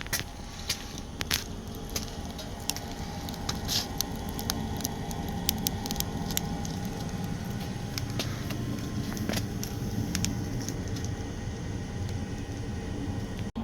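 Wood fire crackling and popping with irregular sharp snaps inside a homemade downdraft wood-burning stove, over a steady hum and low rumble from the stove's forced-draft exhaust fan.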